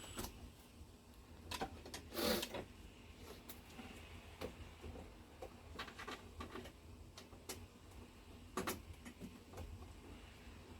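Scattered clicks and knocks of parts being handled, with a short scraping rustle about two seconds in and a sharper knock near the end.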